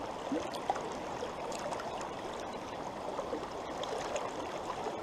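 Trout stream running over riffles and shallow pocket water: a steady, even rush of flowing water.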